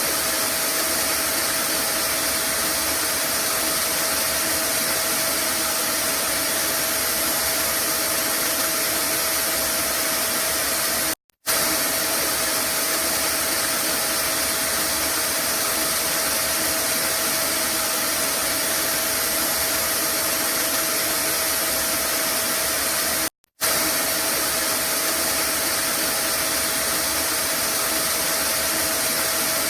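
Vacuum cleaner running steadily as white noise for lulling a baby, a constant rushing hiss with a steady whine through it. It drops out to silence for an instant twice, at even spacing, where the looped recording restarts.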